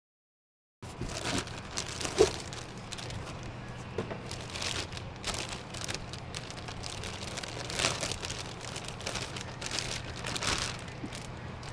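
Handling noise from a new door latch actuator being turned over in the hands: crinkling and rustling with many short clicks, the sharpest about two seconds in, over a low steady hum. It starts abruptly out of dead silence about a second in.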